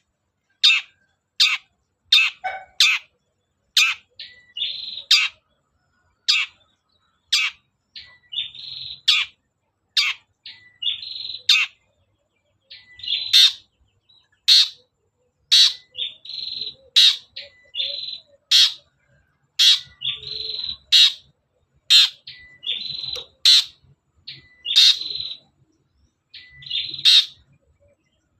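Long-tailed shrike (cendet) calling: a harsh note sliding downward, repeated about once a second, alternating with short buzzy chattering phrases.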